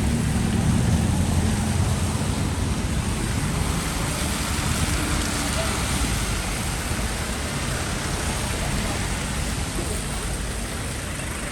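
Steady rain hiss on a city street with passing traffic; a vehicle's low engine rumble is strongest at the start and fades over the first few seconds.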